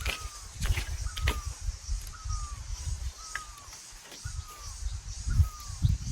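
A bird calling one short falling note over and over, about twice a second, over low rustling and thumps.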